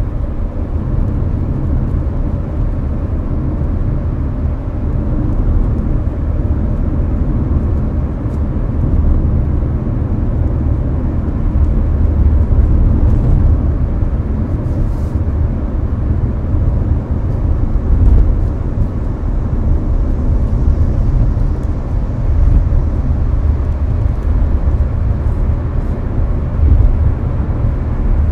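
Steady low road and engine rumble inside a Hyundai Avante (Elantra) cruising at highway speed, with the air-conditioning fan running.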